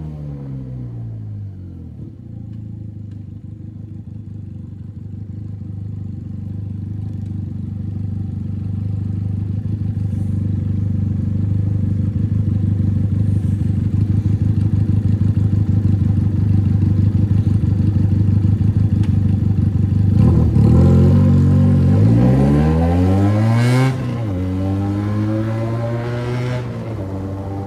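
Benelli 302 parallel-twin motorcycle with a straight-pipe exhaust, no muffler. Revs fall at the start, then it runs steadily at one engine speed, growing louder. About three-quarters of the way in, the revs dip and climb again, and near the end the sound drops suddenly.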